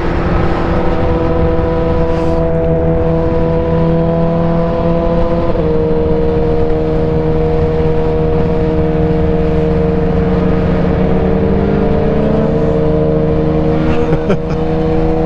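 BMW S1000RR inline-four sport bike engine with a wide-open aftermarket exhaust, cruising at a steady engine speed with wind rumble. The engine note holds nearly level, with a small step in pitch about six seconds in and a slow rise and fall near the end.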